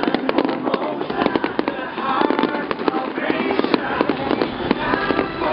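Fireworks display: a dense, rapid string of bangs and crackles from shells bursting one after another, with voices mixed in.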